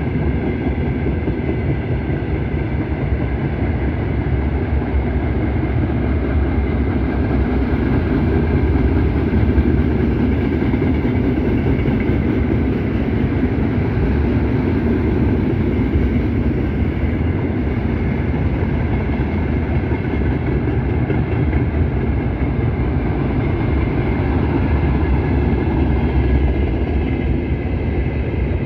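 Wheels of a long freight train's wagons, tank cars and boxcars, rolling past steadily on the rails.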